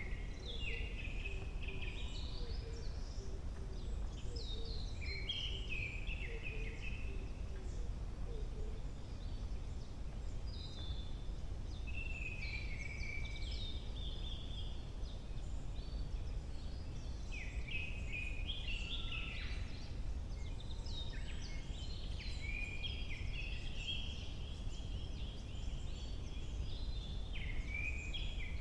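Several wild songbirds singing in a forest in early summer, their chirps and trills overlapping almost without a break, over a steady low rumble.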